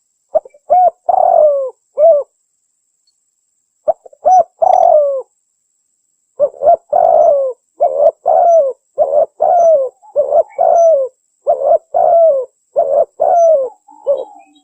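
Spotted dove (tekukur) cooing, from a hunting lure recording billed as a female calling to males. Two short phrases of a few coos come in the first five seconds. From about six seconds in, a fast, nearly unbroken run of coos follows, each note falling in pitch at its end.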